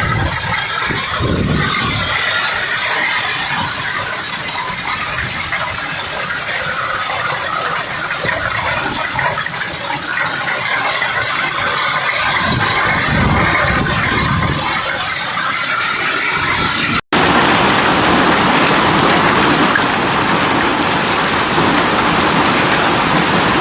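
Violent hailstorm: hailstones clattering densely and continuously on hard surfaces, mixed with heavy rain. About two-thirds of the way through it cuts abruptly to a steadier, even hiss of downpour and hail.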